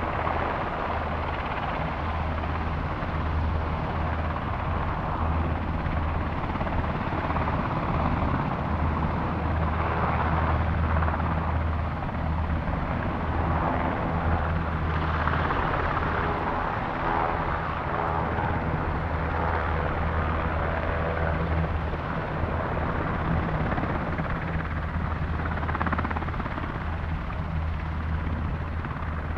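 Sikorsky UH-60 Black Hawk helicopter running, its twin turboshaft engines and four-bladed rotor making a steady heavy low drone with a broad rushing noise over it that swells and eases, and a higher whine coming through in the middle stretch.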